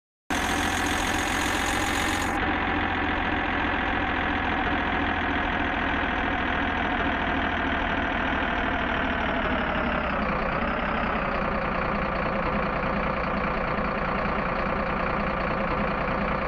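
Vehicle engine running steadily, with a short dip in pitch a little past the middle.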